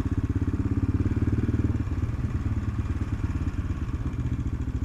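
AJP PR7's single-cylinder engine running at low, steady revs, an even rapid pulse that does not rise or fall.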